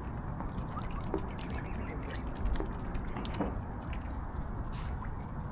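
Water dripping and splashing softly as swans and cygnets dabble at the surface, with scattered clicks and a few brief faint calls over a low wind rumble.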